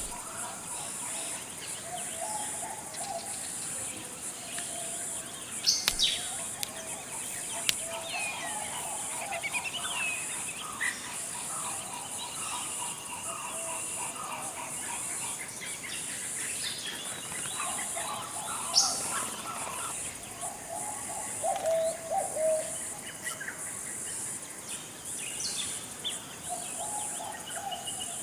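Forest ambience: several birds calling and chirping at intervals over a steady high-pitched hiss, with a few sharp high chirps standing out about six, nineteen and twenty-six seconds in.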